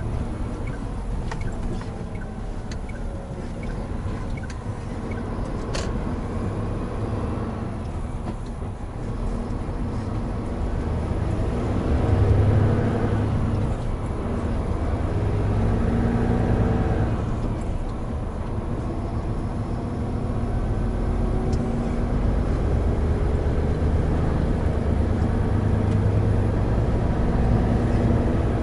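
Hino Profia heavy truck's diesel engine running under way, with road noise. The engine note rises and falls as the truck changes speed, getting louder about twelve seconds in and again around sixteen seconds.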